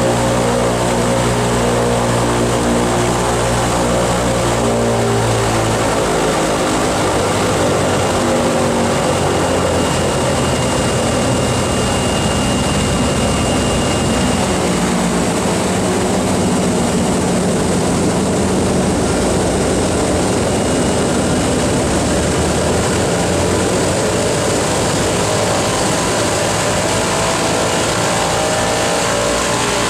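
Boeing B-29 Superfortress's Wright R-3350 radial piston engines running loudly. The engine note drops about six seconds in, shifts through the middle and rises again near the end.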